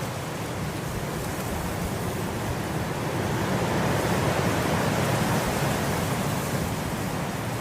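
Wind blowing steadily through grass, a rushing noise that swells in a gust about halfway through and eases off again.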